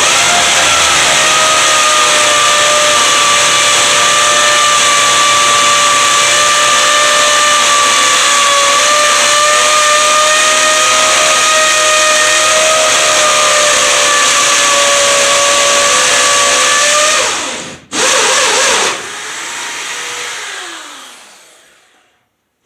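Vacuum motor running with a steady high whine for about seventeen seconds. It cuts off, runs again for about a second, then slowly winds down.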